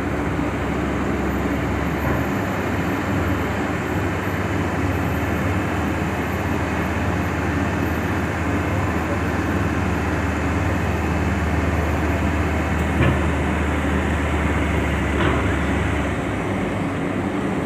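Heavy diesel vehicle engines running as vehicles drive off a ferry, a steady low engine hum over a general mechanical din. The low hum drops away about sixteen seconds in.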